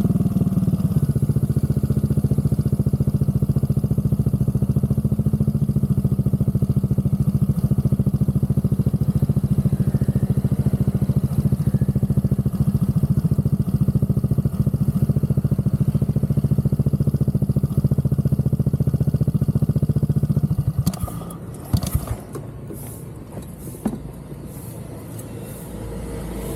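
Aprilia SR GT Replica scooter's single-cylinder four-stroke engine idling steadily through an aftermarket Zard exhaust, then shut off about 21 seconds in; a couple of knocks follow.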